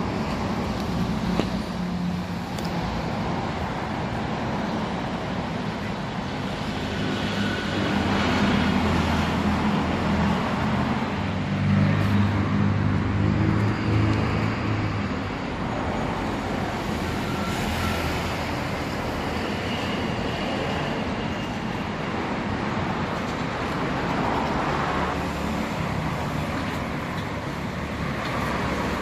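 Honda Monkey 125's single-cylinder four-stroke engine running through its exhaust, getting louder for several seconds in the middle.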